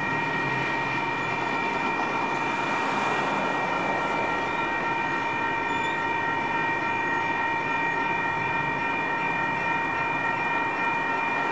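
Metra commuter train at a station: a steady rumble with several constant high ringing tones held over it.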